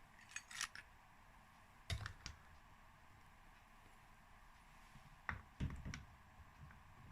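A few light metal clicks and clunks from the clutch basket being slid onto its shaft in a two-stroke dirt bike engine: a couple near the start, more about two seconds in, and a small cluster around five to six seconds in.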